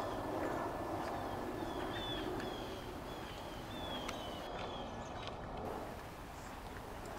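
Outdoor crowd ambience with a steady low background rumble, over which a bird gives a string of short falling chirps about every half second for the first five seconds. A few sharp clicks come and go.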